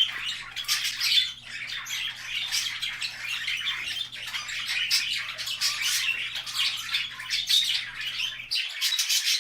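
A flock of budgies chattering and chirping continuously, with many sharp, quick calls and squawks mixed in.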